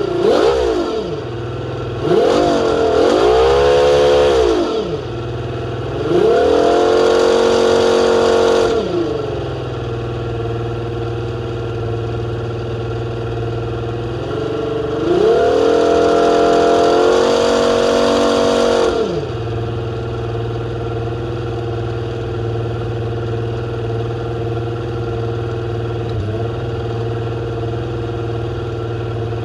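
Mercury 150 Pro Max OptiMax outboard, a direct-injection two-stroke V6, idling on a pre-season land run and being revved by hand several times. Two quick throttle blips at the start, then three longer revs, the last two held for two or three seconds, each dropping back to a steady idle.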